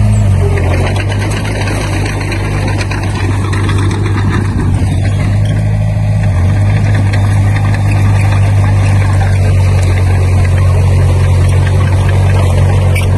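Diesel engine of heavy earthmoving machinery running steadily, a constant low drone with mechanical noise above it.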